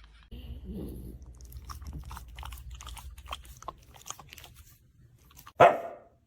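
A dog crunching and chewing on something hard: a run of crisp crunches for about four seconds. Near the end comes one short, loud bark.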